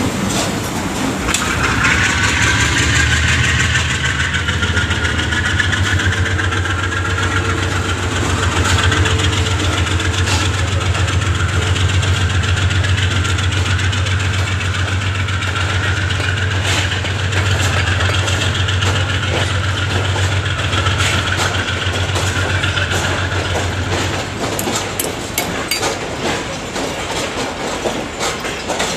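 Express train arriving: the diesel locomotive's engine runs with a steady low drone as it approaches and passes, and fades out about four-fifths of the way through. Near the end the carriages roll by with clicking of wheels over the rail joints.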